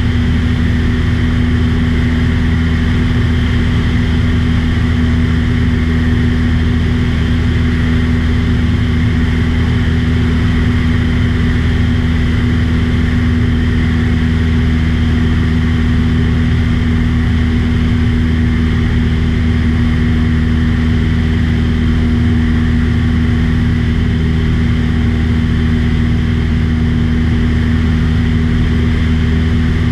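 Light propeller aircraft's piston engine running steadily in cruise: an unbroken, even drone.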